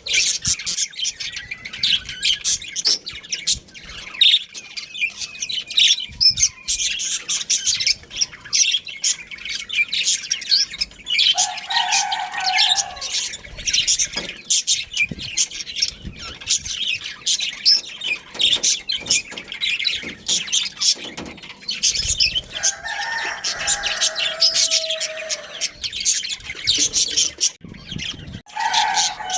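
A flock of budgies chirping and chattering continuously in quick, overlapping chirps, with a couple of lower, longer calls from another bird about twelve seconds in and again near the end.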